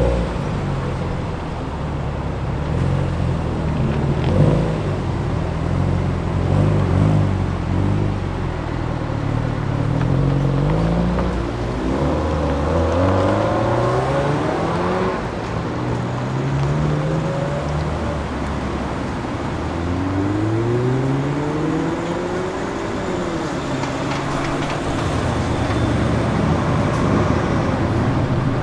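Modified cars' engines pulling away one after another, each rising in pitch as it accelerates, with several engines overlapping at times.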